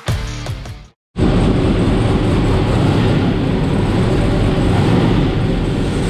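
Twin-turbo LS V8 drag car engine running steadily on the dyno, loud and even with no revving, starting abruptly about a second in after a brief silence.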